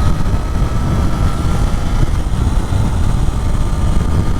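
2024 Triumph Daytona 660's inline three-cylinder engine running steadily at highway cruising speed on light throttle, under heavy wind rush buffeting the rider's microphone.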